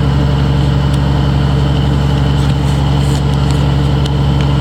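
Vehicle engine running steadily: a constant low hum at an even pitch.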